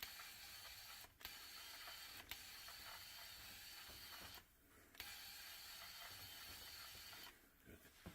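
Steady machine hiss, broken briefly about a second in and again for about half a second past the middle, then stopping near the end.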